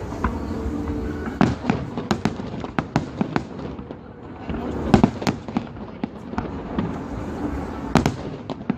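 Fireworks show: a rapid, irregular series of aerial shell bangs and crackles, with the loudest bursts about five seconds in and near the end.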